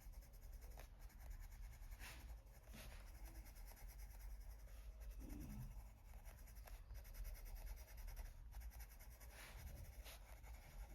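Faint scratching of a colored pencil stroking lightly across paper, a soft stroke every second or so, over low room hum.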